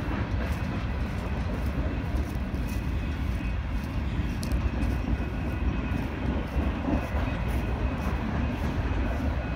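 Freight train of boxcars rolling through a grade crossing: steady rumble and clatter of wheels on the rails.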